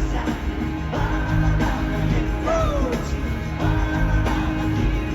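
Live band playing in a stadium while the audience sings the song along with it.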